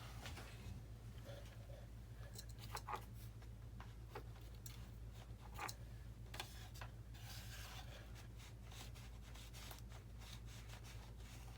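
Faint scattered clicks and light rubbing of small parts and wires being handled and fitted by hand, over a steady low hum.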